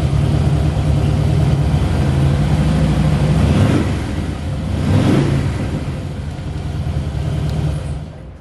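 A 2013 Harley-Davidson Fat Boy's Twin Cam 103 V-twin running through Vance & Hines slip-on mufflers, idling with two short throttle blips a few seconds in. The sound fades away near the end.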